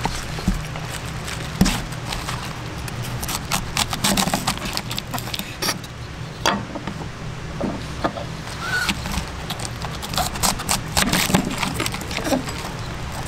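Irregular clinks, taps and knocks of small hard objects being handled, over a steady low hum.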